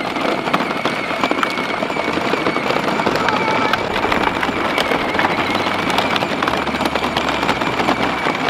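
Farm tractor engine running under way, a rapid, even clatter of firing pulses.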